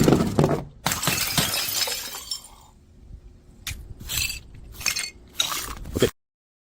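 A run of sharp crashes, each with a ringing, clinking tail, the loudest at the start, stopping dead about six seconds in.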